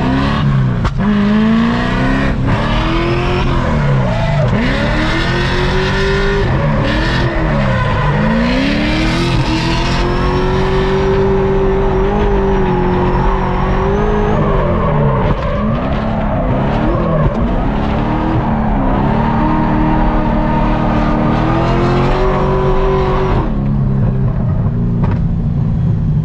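Supercharged LS7 V8 of a C6 Corvette Z06 at full drift: the revs swing up and down again and again, hold high for a few seconds mid-way, and drop off near the end, with tyres skidding under it.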